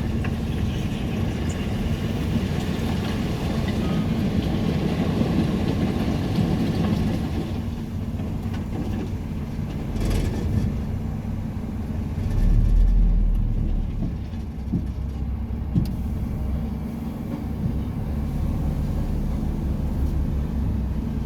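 Truck engine and tyre noise while driving: a steady low drone with road hiss, and a deeper rumble that swells briefly about two thirds of the way through.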